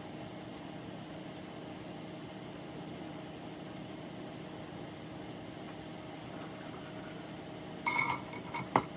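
Steady low machine hum, with a short cluster of sharp clicks and taps shortly before the end.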